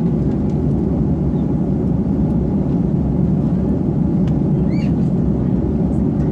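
Steady cabin noise of an Airbus A330 airliner in cruise: a loud, even low rumble of the engines and rushing air.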